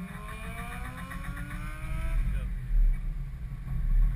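Mazda Miata's four-cylinder engine accelerating, its pitch rising steadily for about two seconds before it falls away, heard from inside the open cabin. A low rumble follows, loudest about three seconds in and again near the end.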